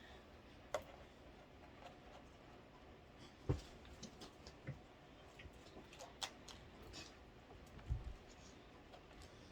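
Faint, scattered clicks and light knocks of a plastic single-cup pod coffee maker being handled and fiddled with, about half a dozen over the stretch, with a slightly stronger knock about three and a half seconds in and another near eight seconds.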